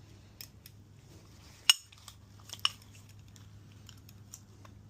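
Light metallic clicks and clinks as piston rings are worked onto an engine piston, with two sharper clicks about a second apart a little under two seconds in, the first the loudest.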